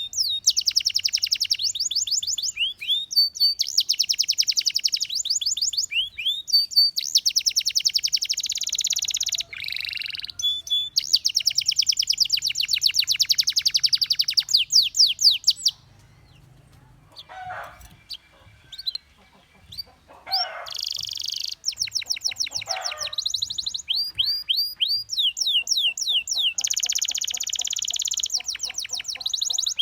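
Domestic canary singing in fast trills of rapidly repeated high notes, one roll after another. A pause of a few seconds falls a little past halfway, then the trills resume.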